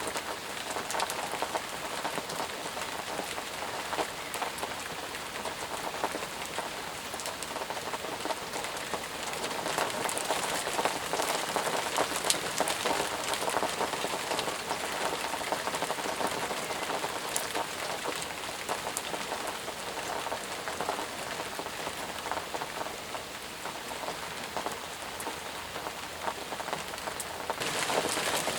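Steady rain falling, an even hiss dotted with many separate drop impacts. About a second before the end the hiss turns brighter and a little louder.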